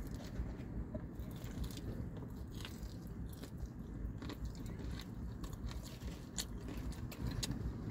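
Close-up biting and chewing of crispy fried chicken, the breaded coating giving scattered small crunches throughout.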